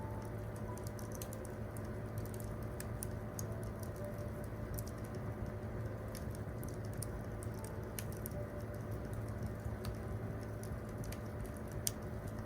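Wood campfire crackling, with irregular sharp pops and snaps, under a few soft piano notes.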